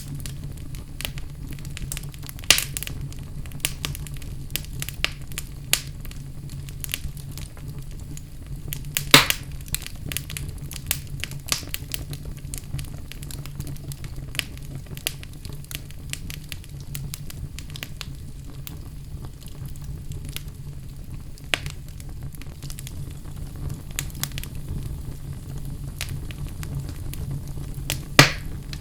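Wood fire burning in a fireplace: a steady low rumble of flames under irregular crackles and pops, with a louder snap about nine seconds in and another near the end.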